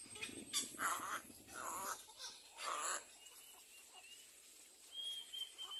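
Little egret nestlings giving short, harsh rasping calls, three in quick succession in the first three seconds, with a faint thin whistle near the end.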